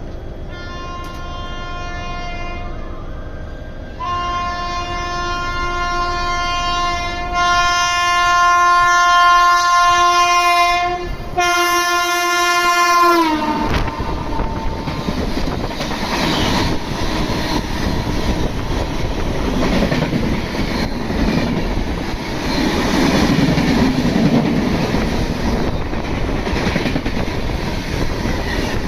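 Indian Railways train sounding a long, steady horn blast for about thirteen seconds. Its pitch drops as the locomotive passes, and then the rumble and clickety-clack of the coaches running by takes over.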